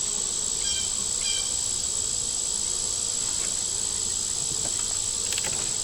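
Honey bees buzzing around an opened hive, over a steady, unbroken high-pitched insect drone. There is a brief sharp click near the end.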